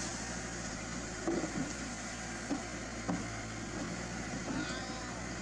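An engine idling steadily, with a few short, light knocks over it in the first half.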